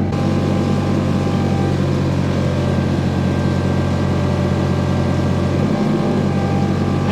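Tractor engine running steadily, with a brief change in its note about six seconds in.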